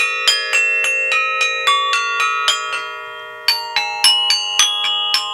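Balinese gamelan metallophone bars struck with a hooked gamelan beater: a run of single notes, about three or four a second, each ringing on and overlapping the next. There is a brief pause about three seconds in before a quicker run.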